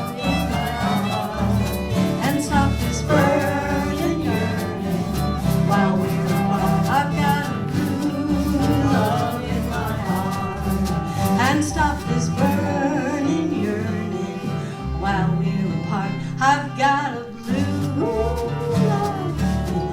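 Live acoustic folk ensemble playing a country tune: plucked and strummed strings over a steady bass line.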